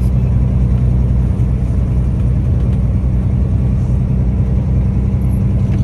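Tractor-trailer's diesel engine running at a steady cruise, a low even drone with road noise, heard from inside the truck's cab.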